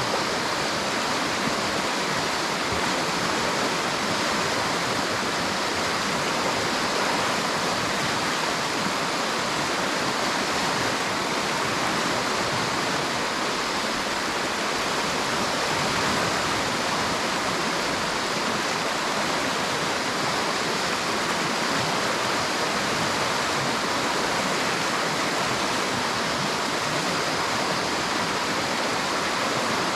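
River water rushing steadily, an even, unbroken hiss with no single splashes standing out.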